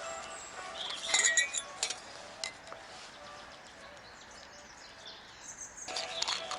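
A few light clinks of hard objects knocked together, each ringing briefly, in the first couple of seconds.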